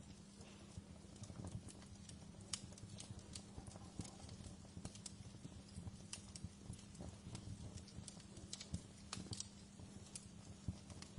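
Fireplace fire crackling: irregular sharp snaps and pops over a low steady hum.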